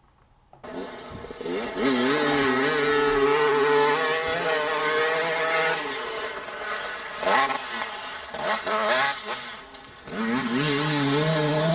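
KTM 300 EXC two-stroke dirt bike engine starting up about half a second in and being revved, its pitch rising and falling, with a few quick throttle blips in the middle and a steady held rev near the end.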